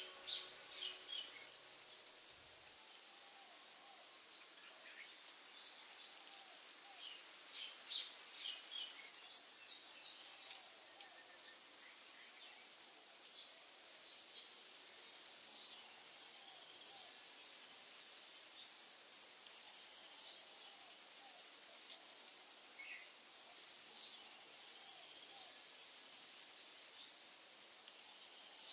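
A high, steady insect chorus with brief breaks every few seconds, and scattered short bird chirps over it.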